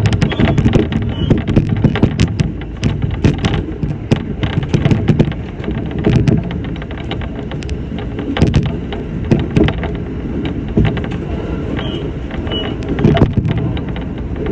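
Shinano Railway SR1-series electric train running between stations, heard from inside the car: a steady low rumble with frequent irregular clacks and knocks from the wheels over the track.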